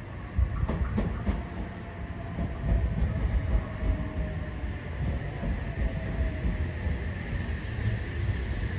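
A train rolling past on the rails: a steady low rumble, with wheels clicking over rail joints in the first second or so, and a faint tone slowly falling in pitch.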